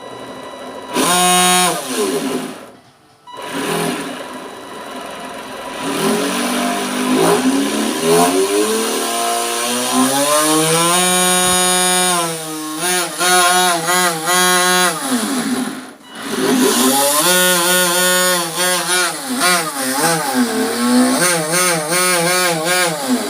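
The RC boat's motor is revved up and down again and again in throttle bursts, its pitch rising and falling. It drops off briefly twice, once near the start and once about two-thirds of the way through.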